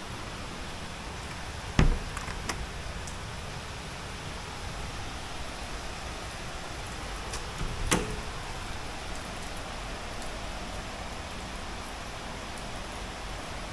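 Steady rain falling, an even hiss, with two sharp knocks about two seconds and eight seconds in.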